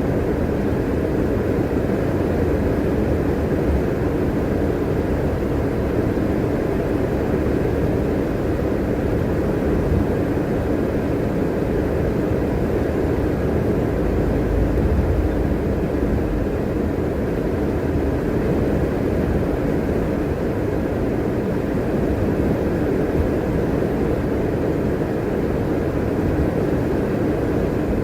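Steady engine and road noise of a city transit bus being driven, heard from inside the bus.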